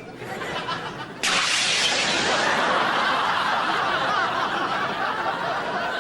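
Audience laughter, breaking out suddenly and loudly about a second in and carrying on steadily.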